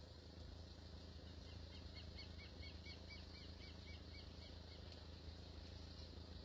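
Near silence with a steady low hum. A small bird calls a quick run of short chirps, about four or five a second, for some three seconds in the middle.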